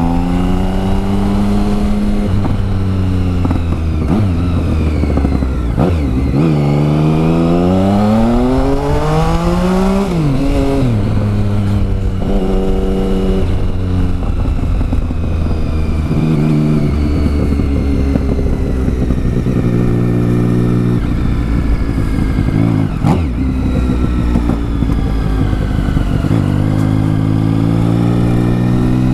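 Triumph Tiger 1050's three-cylinder engine through a new exhaust, ridden in town and picked up by a helmet microphone. The revs rise and fall repeatedly, with pitch drops at gear changes, a long climb and release about halfway through, and steadier low-rev stretches in between.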